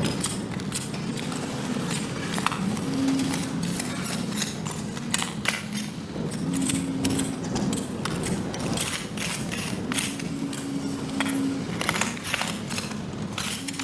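Irregular knocks and scrapes of hand tools working mud and debris off a wet sidewalk, over a low steady hum with brief held tones.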